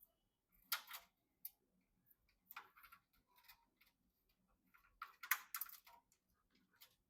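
Irregular clicks and taps from computer parts being handled and fitted together by hand, in short clusters, the loudest about a second in and again about five seconds in.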